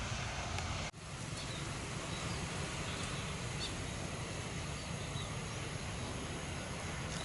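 Steady outdoor rumble with faint, scattered bird chirps over it. The sound cuts out for an instant about a second in.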